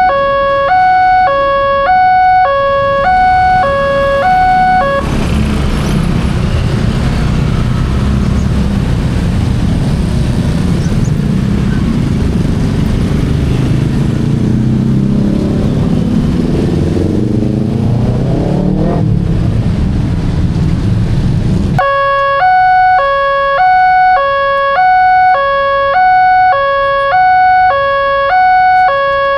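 Railroad level-crossing alarm sounding a repeating electronic two-tone pattern, alternating between a lower and a higher note. About five seconds in, it is swamped by a passing train: a loud rumble of wheels on rail, with a gliding motor whine partway through. The alarm is heard clearly again near the end, once the train has passed.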